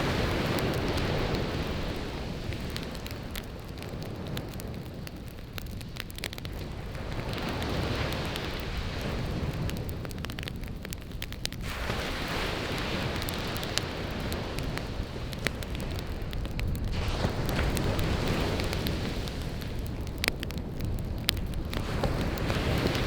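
Firewood crackling and popping in a campfire, with sea waves washing ashore in swells every few seconds.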